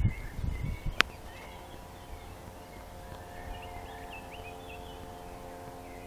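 A few footsteps or handling thumps in the first second and a sharp click about a second in, then a songbird singing short, faint, high chirping phrases for a few seconds, over a steady faint hum.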